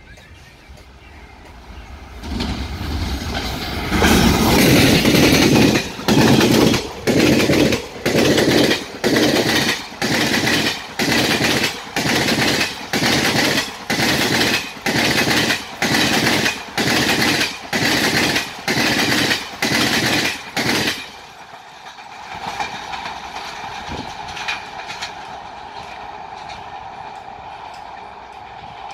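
Janshatabdi Express coaches behind a WAP4 electric locomotive rushing past at speed. The sound builds over the first few seconds, then the wheels give loud, rhythmic clatter over the rail joints, a burst a little more than once a second, for about seventeen seconds. It then drops away to a fainter noise with a steady tone as the train recedes.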